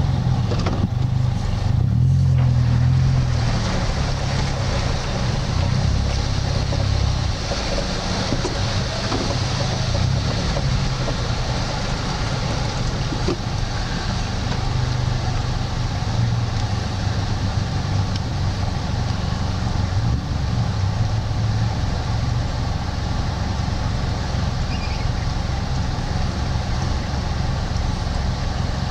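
Off-road four-wheel-drive engine idling steadily, a little louder for the first few seconds, over a constant rush of outdoor noise.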